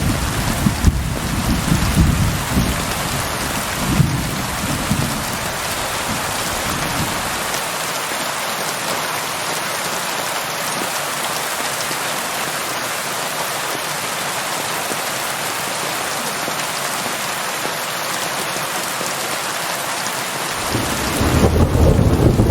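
Steady heavy rainfall hissing, with a low rolling rumble of thunder under it that dies away about seven seconds in and starts again near the end.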